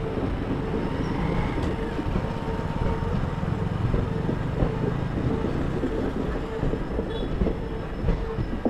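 Passenger train coaches rolling past: a steady rumble of wheels on the rails with irregular clacks over the rail joints.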